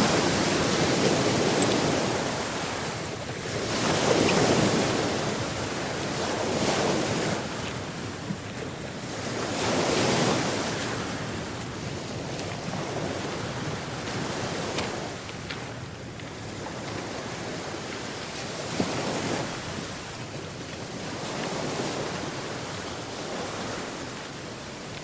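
Atlantic Ocean waves washing in and breaking, a noisy rush that swells and fades every few seconds and is loudest in the first ten seconds, with some wind buffeting the microphone.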